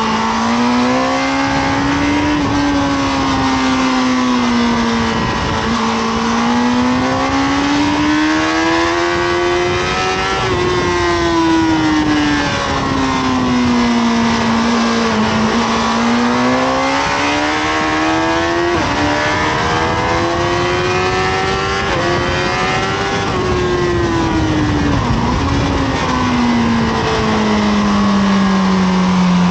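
Honda CBR1000RR (SC57) inline-four engine at full track pace, revving up and down as it accelerates and slows for corners, with quick drops in pitch at upshifts, over steady wind rush on the on-board microphone.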